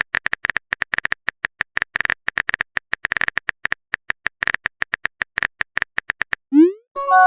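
Rapid, irregular clicks of a phone keyboard typing sound effect. Near the end comes a short rising swoop and a bright chime, a message-sent alert.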